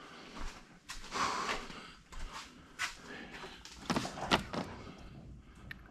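Hand tools being rummaged through and handled: irregular knocks and metal clatters, the sharpest about a second in and around four seconds in, with scraping and rustling between them.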